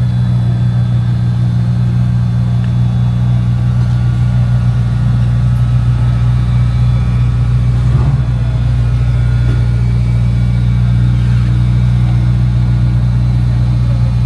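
A motor vehicle engine idling close by, a constant low hum that holds steady throughout.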